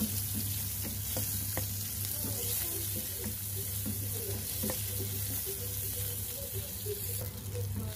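Sliced shallots, garlic and ginger sizzling in hot oil in a nonstick frying pan, stirred with a wooden spatula that scrapes and taps the pan now and then.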